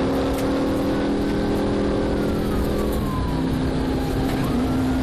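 Patrol car's engine running hard with heavy road and wind noise during a high-speed pursuit. About three seconds in, the engine note drops and settles lower.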